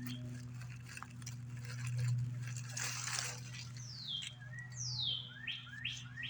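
A bird calling with several clear whistled notes that sweep downward, mixed with short rising chirps near the end. A steady low hum runs underneath, and there is a brief rustle about three seconds in.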